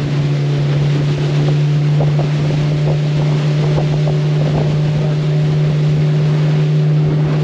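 A boat engine running steadily under way, a constant low hum, with wind buffeting the microphone and water rushing past the hull.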